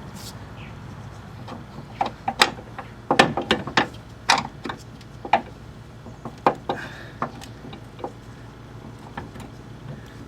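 Irregular sharp clanks and knocks as a complete strut assembly is worked up into a car's strut tower and its top studs are lined up, thickest between about two and five seconds in.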